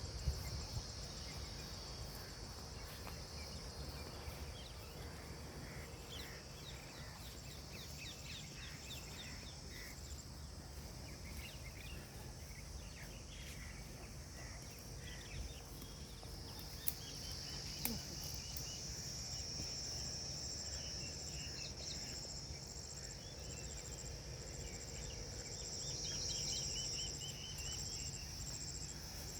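Outdoor insect chorus: a steady high-pitched drone that grows louder about two-thirds of the way through, with scattered short chirps and a low rumble underneath.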